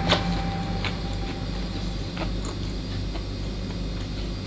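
Mouth-close chewing of crunchy fried shrimp tempura batter: one sharp crunch just after the start, then a few faint crunches. A low steady hum runs underneath.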